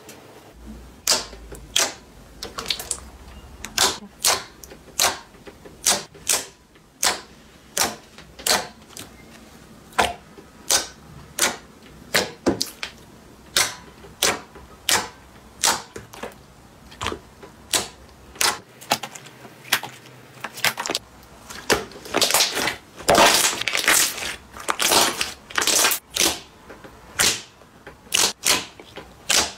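Crunchy slime being squished, giving sharp crackling clicks about once or twice a second, then coming faster and louder in clusters over the last several seconds.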